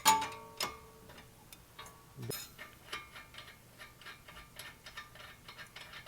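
Ratchet wrench clicking at about four clicks a second, with a few sharper metal knocks near the start and a dull thud a little over two seconds in.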